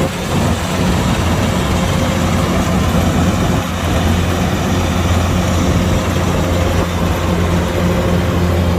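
Kubota DC-105X combine harvester's engine running at a steady speed, a continuous low hum, dipping slightly just after the start and again about three and a half seconds in.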